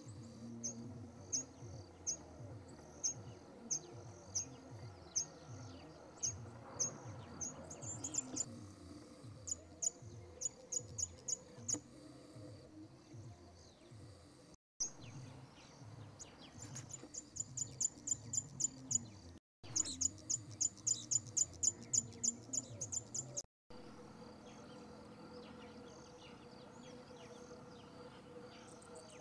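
A small bird giving short, high chip calls about once a second, quickening into fast runs of chips partway through. The sound drops out briefly three times.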